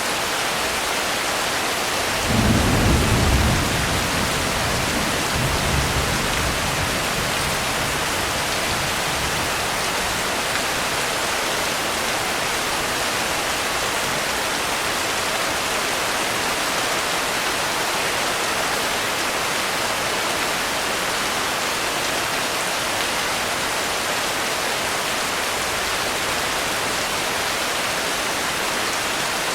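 Steady heavy rain, with a roll of thunder about two seconds in and a fainter low rumble a few seconds later.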